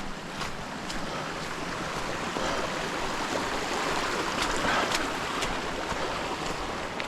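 Steady rush of flowing water, swelling slightly midway, with a few faint scattered clicks.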